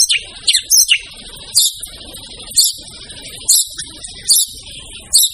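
White-rumped shama (murai batu) singing loudly: a quick run of falling high notes at the start, then sharp high calls about once a second.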